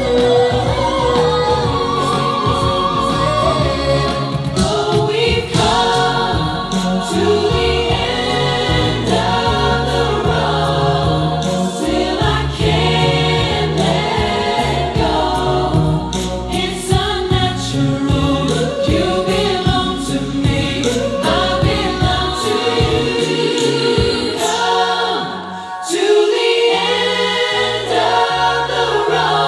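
A vocal group singing in harmony over a low bass line.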